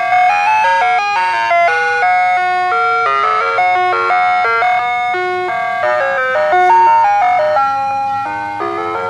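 Ice-cream truck's loudspeaker playing its jingle: a simple, electronic-sounding tune of quick stepping notes, repeating continuously.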